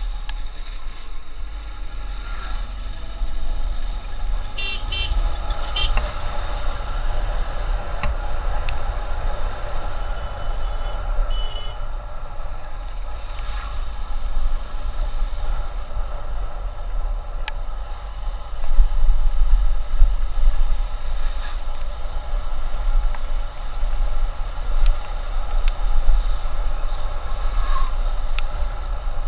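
Motorcycle riding along a busy highway: steady wind rumble on the microphone over engine and traffic noise, with vehicle horns tooting briefly a few times.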